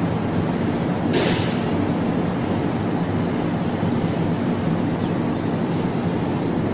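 KTM electric train running away along the track, a steady low rumble with a brief hiss a little over a second in.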